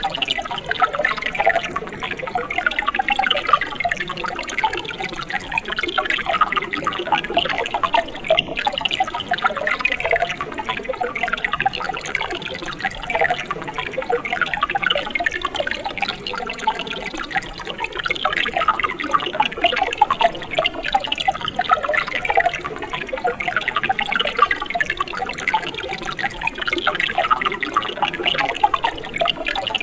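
Mountain stream running water, babbling and gurgling steadily with a dense pattern of small splashes.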